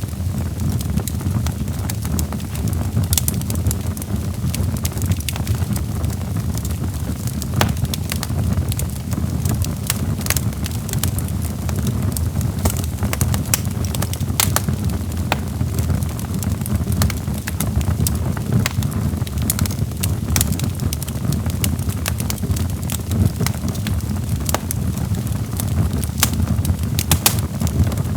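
Wood fire in a fireplace crackling: burning logs giving off irregular sharp pops and snaps over a steady low roar of flames.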